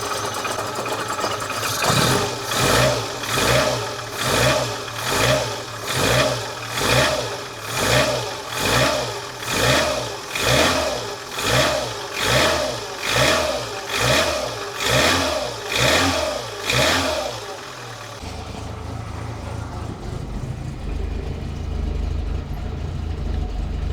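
1985 Lancia A112 Abarth's 1050 cc Fiat four-cylinder engine, running cold, revved in quick, even blips about one and a half times a second, each rising and falling, then settling back to idle for the last several seconds. The microphone is right at the engine, which exaggerates the sound.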